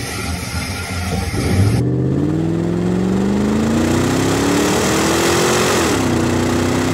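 Brief clatter, then a car's engine heard from inside the cabin, rising steadily in pitch as the car accelerates. About six seconds in the pitch drops quickly, as at a gear change, and then holds steady.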